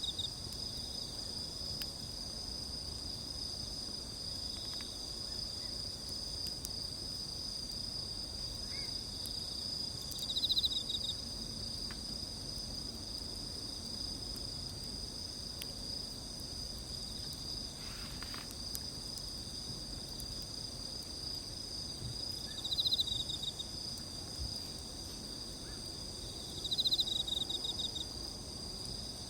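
Crickets and other insects trilling steadily in a high-pitched chorus, with a louder pulsing trill lasting about a second coming back several times: near the start, about ten seconds in, and twice near the end.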